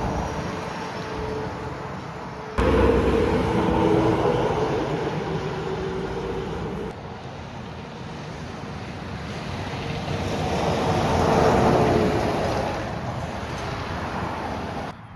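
Road traffic with trucks going by: a steady rush of tyre and engine noise that swells twice as vehicles pass, with a faint whine that sinks slightly in pitch. The level jumps suddenly twice, about 2.5 s in and about 7 s in.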